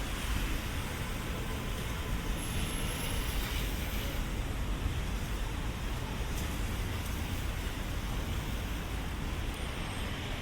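Steady city street traffic noise on wet streets: a continuous low rumble of vehicles with a hiss of tyres over it.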